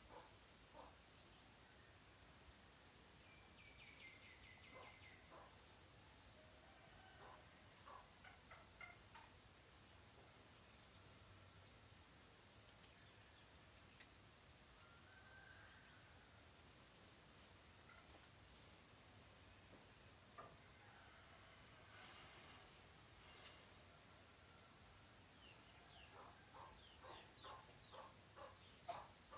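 A cricket trilling in bouts of a few seconds each, a fast high-pitched pulsing broken by short pauses, with faint bird chirps underneath.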